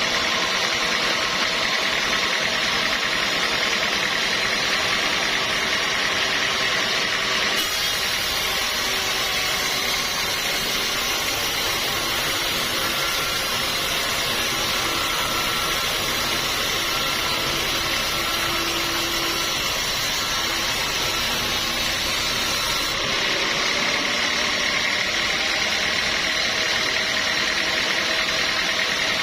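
Sawmill machinery running steadily with a high whine. From about a quarter of the way in until about three-quarters through, a harsher, fuller hiss and rumble join in, then fall away again.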